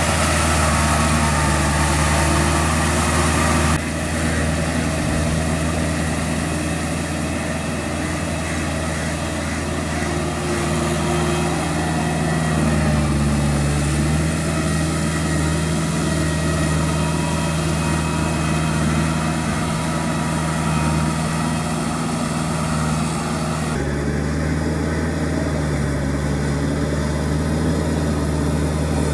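Kubota L3408 tractor's diesel engine running steadily while working a rotavator in puddling, its pitch shifting slightly with the load. The sound changes abruptly twice, about four seconds in and again near the end, as if the footage cuts between takes.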